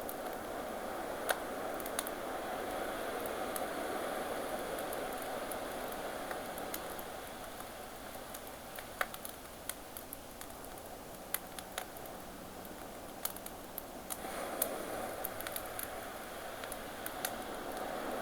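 Campfire crackling with scattered sharp pops over ocean waves washing on the shore, the surf swelling, easing off in the middle, then swelling again near the end.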